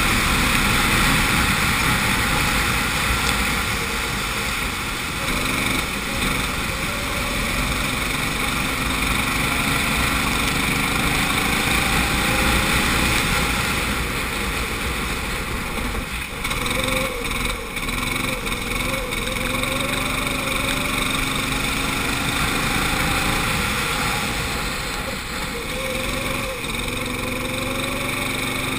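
Go-kart engine heard onboard, its pitch rising and falling as it accelerates and eases off through the corners, over a steady rushing noise. There are a few brief drops in loudness about two-thirds of the way through.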